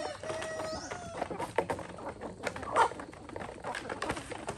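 Chickens clucking, with scattered light clicks and knocks and a short high chirp.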